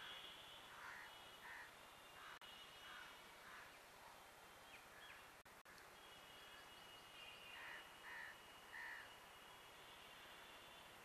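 Faint crows cawing, short calls coming in pairs and threes, over a steady high-pitched hum.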